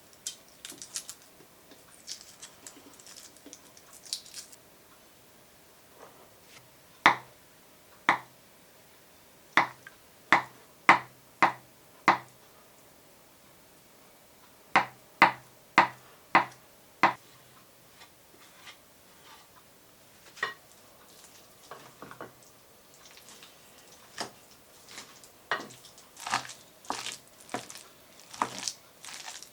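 Kitchen knocks in short runs: a knife chopping on a cutting board, about one or two strokes a second, with softer taps and clatter of utensils near the end.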